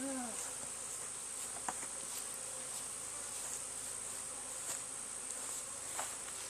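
Honeybees buzzing around a freshly captured swarm, with one bee flying close past the microphone about at the start, its pitch falling as it passes.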